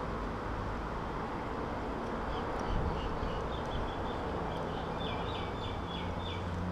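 Steady outdoor background noise with a bird chirping in quick runs of short high notes. A low hum joins about four and a half seconds in.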